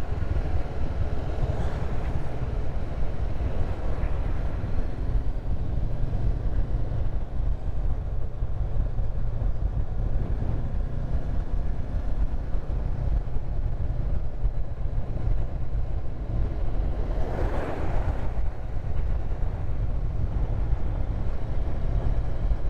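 Steady riding noise of a Honda CB500X parallel-twin motorcycle on the move: a low rumble of engine and wind, with a brief swell of noise about 17 seconds in.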